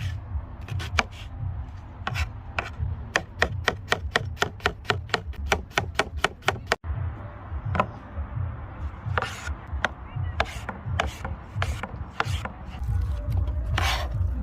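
Knife chopping food on a wooden cutting board in quick, even strokes, about four a second, with a brief break about halfway.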